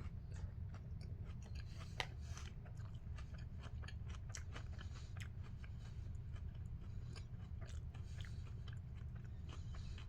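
A person chewing a mouthful of Cinnamon Pebbles crisp rice cereal in milk: a run of soft, small crunches, with one sharp click about two seconds in, over a low steady hum.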